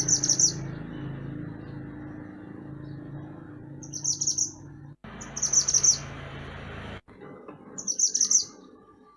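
Mantenan gunung songbird singing four short bursts of quick, high chirps, spaced a few seconds apart. A low steady hum runs underneath and drops out briefly twice.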